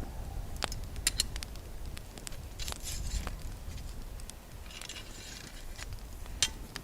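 Scattered sharp clicks and light clinks, with two short hissy rustles and a low steady rumble underneath.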